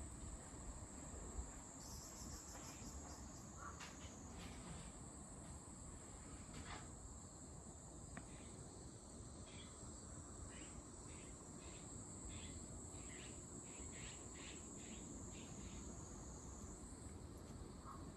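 Faint outdoor insect chorus: a steady, high-pitched insect trill that steps slightly higher near the end, with a run of short, quick chirps about halfway through.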